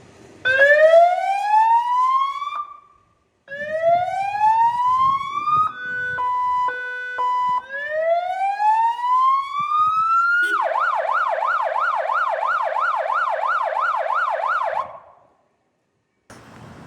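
Fire truck's electronic siren being cycled through its tones: three rising wails, each cut short, with a short stepped two-tone section between the second and third, then a fast yelp of about four sweeps a second that stops abruptly. Near the end, wind noise on the microphone starts up.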